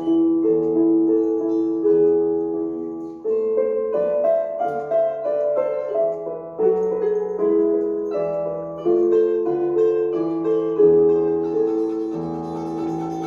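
Piano playing a slow, gentle piece: held chords and a melody that change every second or two, each new chord struck and then fading.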